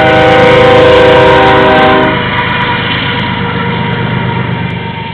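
Locomotive air horn sounding a chord of several notes, cutting off about two seconds in, then the rumble of the passing train slowly fading.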